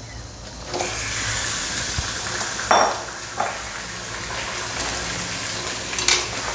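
Raw chicken pieces sizzling in hot mustard oil with fried onions in a metal kadhai. The sizzle starts about a second in and holds steady while a metal ladle stirs, knocking sharply against the pan a few times.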